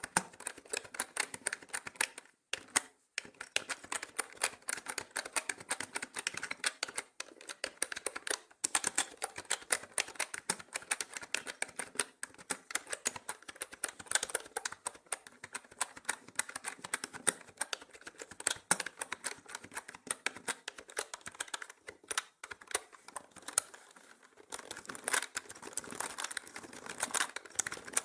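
Continuous fast typing on a mechanical keyboard: dense, irregular key clicks and clacks, with brief pauses about two and a half seconds in, about eight seconds in and around twenty-two seconds in.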